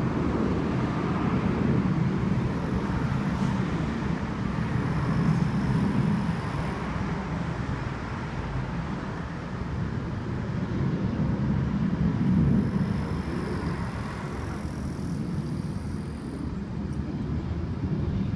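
An airport rapid passenger train running past: a steady low rumble that swells and eases.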